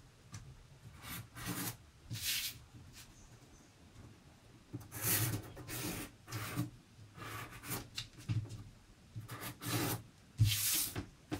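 Pencil scratching on card as it traces around the edge of a cardboard template, in a series of short, separate strokes.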